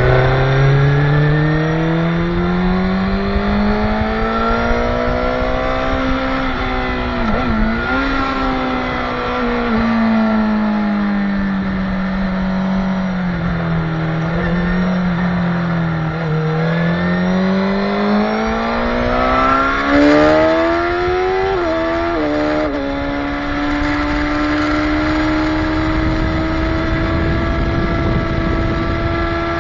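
Motorcycle engine at full track speed: the revs climb over the first six seconds and break briefly with a gear change, fall away through the middle, climb again with two or three quick shifts a little past twenty seconds, then hold steady at high revs.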